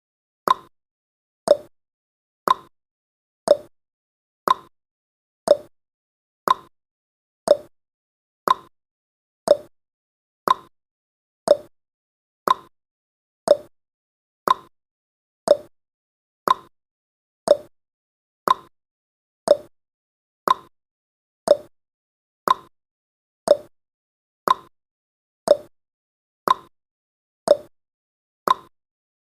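Countdown timer's clock-tick sound effect: one short tick every second, alternating between a slightly higher and a slightly lower tick like a tick-tock.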